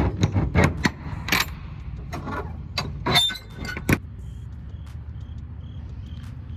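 Semi-truck diesel engine idling with a steady low rumble, with a run of sharp clatters and knocks in the first four seconds, like doors, latches and loose metal being handled. After that the idle goes on alone with a faint, regular high ticking, about two or three ticks a second.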